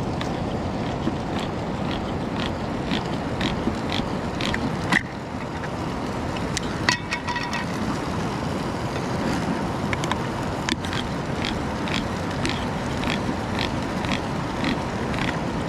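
Steady rush of river water, with a spoon scraping in a pan about twice a second as onions and garlic are stirred. There are a few metallic clinks along the way.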